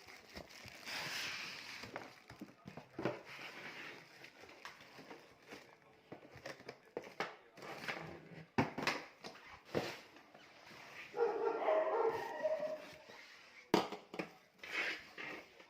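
Unboxing handling noises: packaging rustling, with a series of sharp knocks and clicks. A brief pitched, whining sound comes about eleven seconds in.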